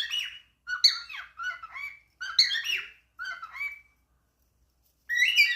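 Pet cockatiel chattering in short warbled, whistled phrases, five in quick succession with a pause of about a second before the last.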